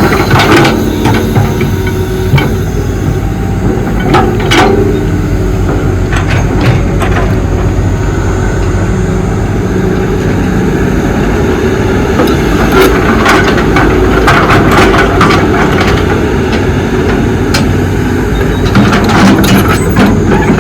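Excavator's diesel engine running steadily under working load, with scattered sharp knocks and clanks of the digging work.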